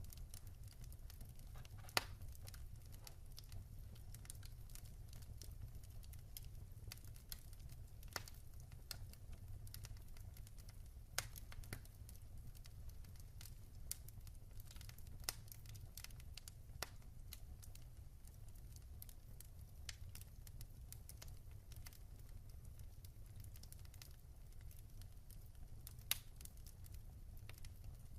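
Wood fire burning quietly: a low steady rumble with irregular sharp crackles and pops from the burning logs, the loudest pops about two seconds in, near the middle and near the end.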